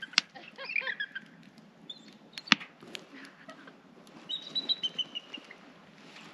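Bird chirping in quick, high-pitched notes, with a falling series of calls about halfway through, and a couple of sharp knocks.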